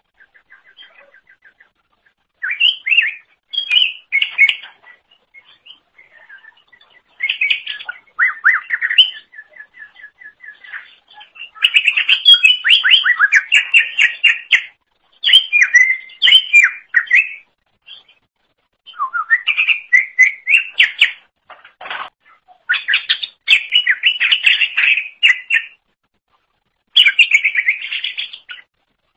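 Green leafbird (cucak ijo) singing in loud, rapid, twittering phrases of one to three seconds with short pauses between them, after soft fast chirp trills at the start.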